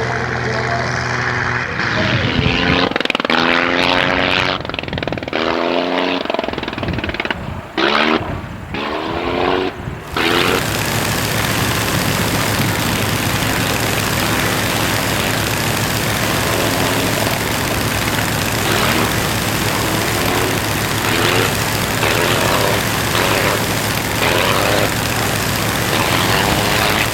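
Piston engines of WWI fighter replicas flying low passes, the engine note gliding up and down in pitch as the aircraft come and go. About ten seconds in the sound changes abruptly to a steadier, rougher engine noise that carries on to the end.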